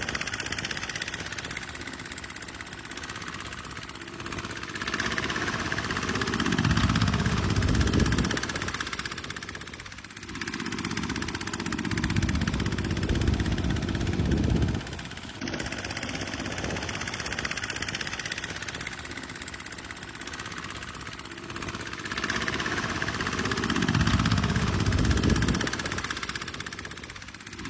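Kubota tractor's diesel engine running under load, its sound swelling deeper and louder a few times as the load changes. About halfway through, the sound breaks off abruptly and picks up again.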